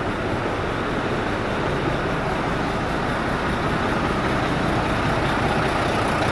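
Volvo FH truck's inline six-cylinder diesel engine idling steadily, freshly rebuilt with new crankshaft bearings and piston rings.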